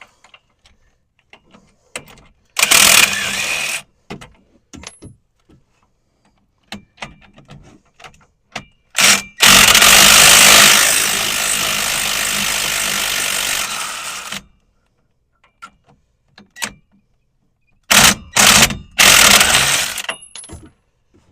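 Impact wrench running out the front hub-to-knuckle bolts: short loud bursts, and one longer run about nine seconds in that hammers hard at first and then spins more steadily as the bolt backs out, with clicks of tool and parts handling between.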